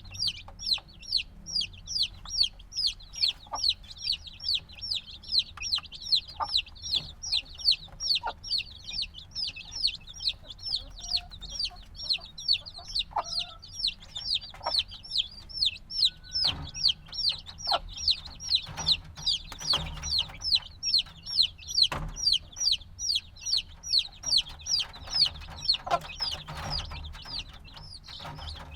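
A brood of chicks a few days old peeping without pause: short high chirps, about three a second, that stop near the end, with a few soft knocks among them.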